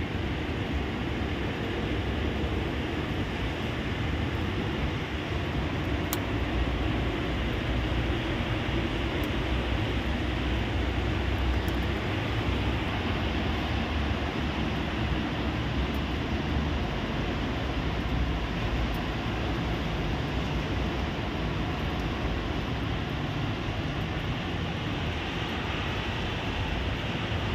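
Heavy rain pouring steadily: a constant hiss with a low rumble underneath.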